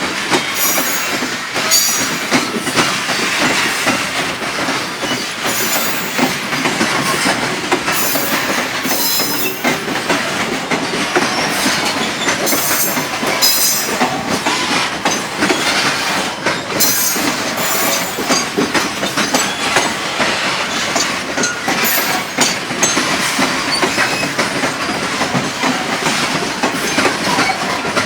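Freight train wagons rolling steadily past, their wheels clattering with many sharp clicks over the rails.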